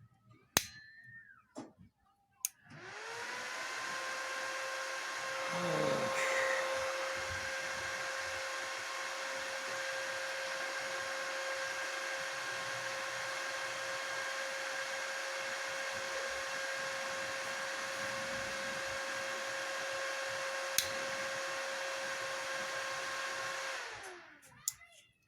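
Vega VW 320 welding inverter switched on with a click, its cooling fan spinning up to a steady airy whir with a steady hum, then winding down when it is switched off near the end. The inverter, just fitted with new power transistors and powered through a series light bulb, runs without failing.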